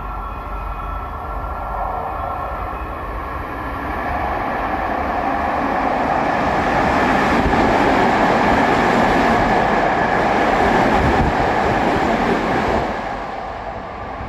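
Electric commuter train running through the station at speed without stopping. Its wheel and running noise builds over the first few seconds, is loudest in the middle as the cars pass, and fades near the end.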